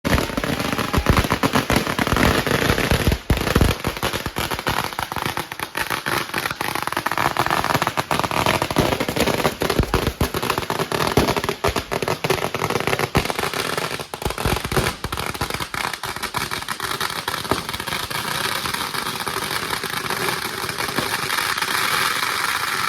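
Firework display: a dense, rapid stream of crackling and bangs with no let-up, the heavier bangs mostly in the first half and a more even crackle later on.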